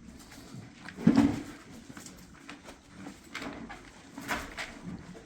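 A pony's hoof striking the stall fence: one loud knock about a second in, then fainter knocks and scuffs as she paws while eating.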